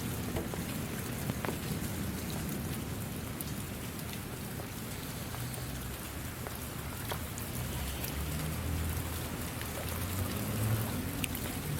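Steady rain falling, with individual drops ticking sharply here and there, and a low rumble swelling in the second half.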